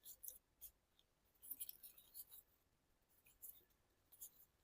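Faint, sparse crinkles and rustles of paper being handled and creased by hand, with a small cluster of them about one and a half seconds in.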